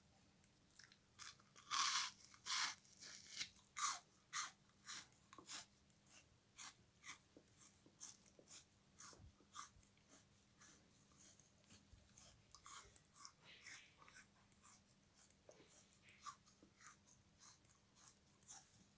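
Crunching bites and chewing on a frozen sponge soaked in lemon-kiwi syrup: an irregular run of sharp icy crackles, loudest about two seconds in.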